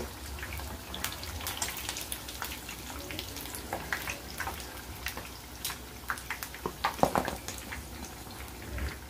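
Cornflour-battered paneer cubes frying in shallow oil, a steady crackle of small pops. There are a few louder knocks about seven seconds in, as the metal slotted spoon lifts pieces out of the pan.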